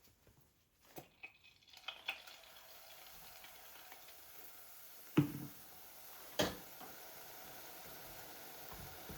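Kitchen work sounds: a few light clicks, then a faint steady hiss of something cooking begins about two seconds in. Two sharp knocks come about five and six seconds in, the first a low thud.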